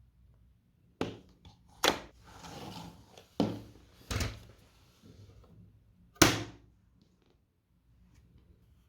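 Five sharp knocks, the last and loudest about six seconds in, with a stretch of rustling handling noise between the second and third.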